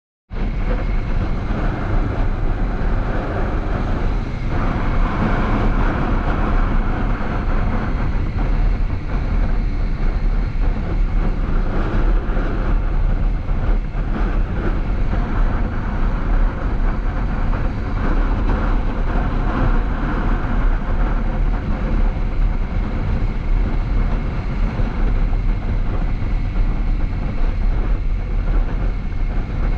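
Kawasaki Z650 motorcycle being ridden: a steady rush of wind and road noise over the microphone, with no change in pace.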